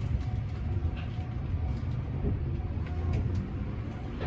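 Electric commuter train running at low speed, heard from inside the driver's cab: a steady low rumble with a few faint clicks.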